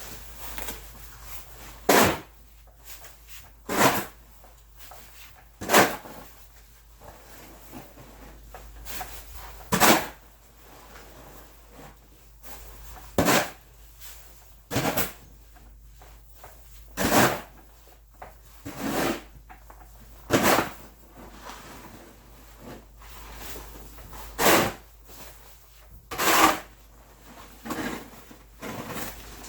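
Snow shovel scraping, about a dozen short strokes one to four seconds apart.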